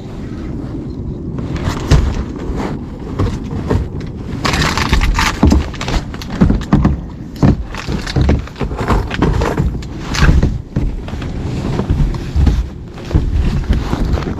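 Gusty wind buffeting the microphone, with irregular knocks, bumps and splashes against a kayak.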